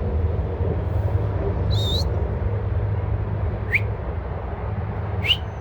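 Three short rising bird chirps, about two seconds apart, over a steady low outdoor rumble.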